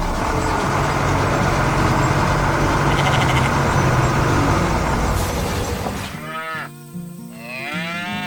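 Loud, steady rumbling noise that stops about six seconds in, followed by two sliding, wavering pitched calls over background music.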